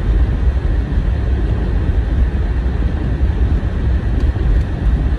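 Car cabin noise while driving on a snowy road: a steady low rumble of the engine and tyres.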